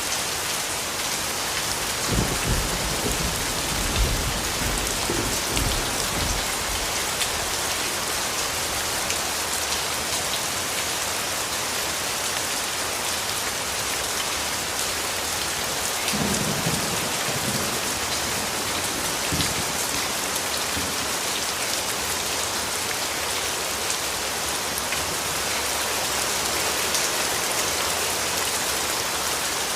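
Steady rainfall hissing, with rumbles of distant thunder twice: about two seconds in and again about halfway through.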